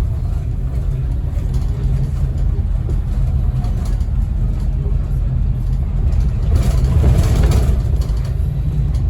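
Diesel engine of a Scania N270UD OmniCity double-decker bus running steadily with a deep rumble, heard from on board. A louder rushing hiss lasts about a second, around seven seconds in.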